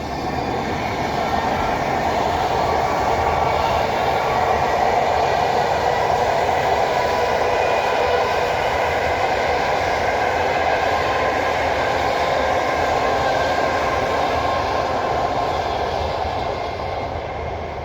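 A train passing at speed: a steady loud rush and rumble of wheels on rail with faint whining tones over it, swelling over the first few seconds and easing a little near the end.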